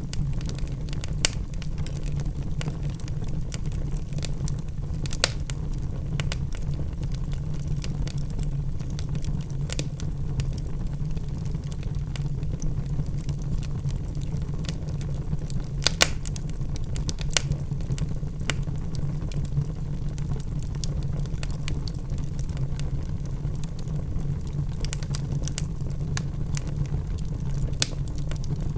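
Wood logs burning in a fireplace: a steady low rumble of the fire with scattered sharp crackles and pops, the loudest pops about 5 and 16 seconds in.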